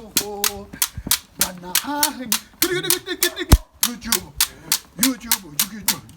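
Steady rhythm of sharp percussive hits, about three a second, accompanying an impromptu African dance, with voices singing or chanting along between the beats. One louder hit lands about halfway through.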